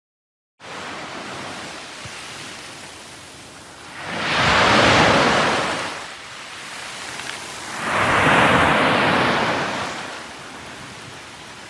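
Sea surf: a steady wash of waves, with two waves breaking loudly about four and eight seconds in.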